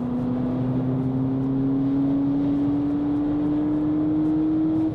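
The 2018 VW Polo GTI's 2.0-litre turbocharged four-cylinder engine under hard acceleration, heard inside the cabin. Its note climbs slowly and steadily through a gear over road and tyre noise.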